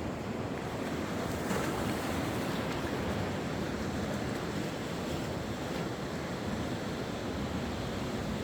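Sea waves washing onto the shore in a steady wash of surf, with some wind buffeting the microphone.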